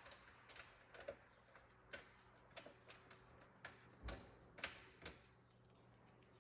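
Faint, irregular small clicks and light taps, a dozen or so, with a duller knock about four seconds in, then stillness for the last second or so.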